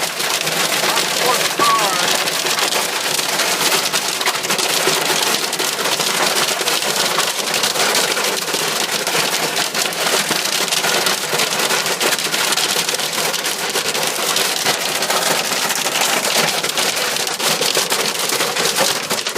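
Hail pelting the body and roof of a car, heard from inside the cabin: a loud, dense, unbroken clatter of countless small impacts.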